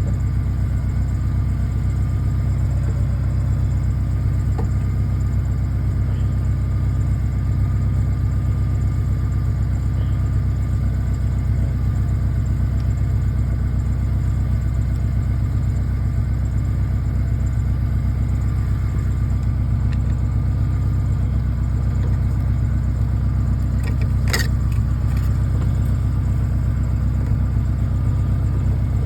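An engine idling steadily, with an even low hum that doesn't change. A single sharp click sounds about 24 seconds in.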